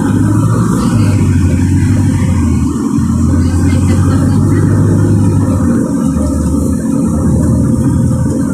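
LiAZ 4292 city bus's diesel engine running, heard from inside the bus as a steady low drone that dips briefly about three seconds in and again near six seconds.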